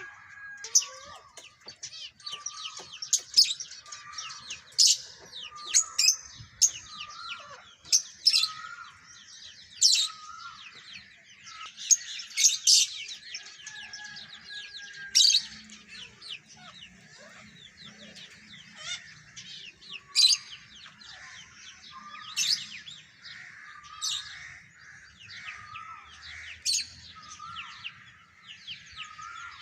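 Many small birds chirping and calling together: dense, sharp high chirps overlapping throughout, over a short lower call repeated every second or two.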